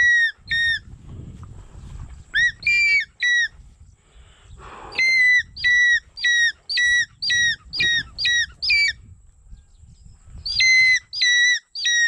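A bird giving short, shrill, repeated call notes in four runs of two to about nine notes each, with brief pauses between the runs.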